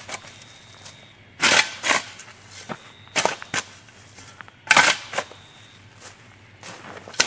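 Sharp knocks in pairs, a fraction of a second apart, repeating about every second and a half, some followed by a faint high ring.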